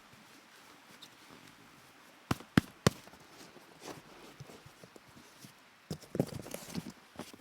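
Three sharp knocks in quick succession about two seconds in, then a stretch of rustling and light knocking near the end, like something being handled.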